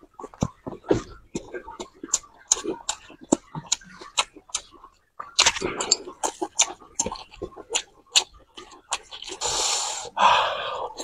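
Close-miked chewing and wet mouth clicks of someone eating, irregular and fast. It breaks off briefly about five seconds in, and a longer rushing sound such as a slurp or breath comes near the end.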